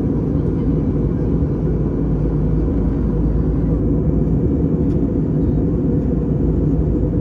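Steady low rushing cabin noise of an Airbus A320 in flight, the engines and airflow heard from inside the cabin, with a faint thin whine above it.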